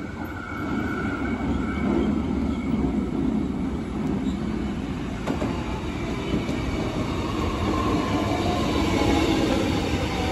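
Melbourne Metro X'Trapolis 100 electric suburban train approaching and running past: wheels on rails and running gear. It grows louder as it nears.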